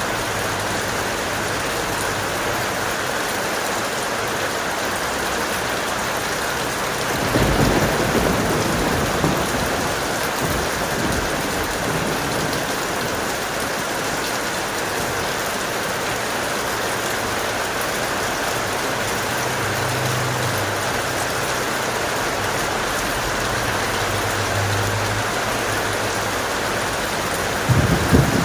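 Steady heavy rain with a roll of thunder starting about seven seconds in and rumbling for a few seconds. A second, sharper burst of thunder breaks in near the end.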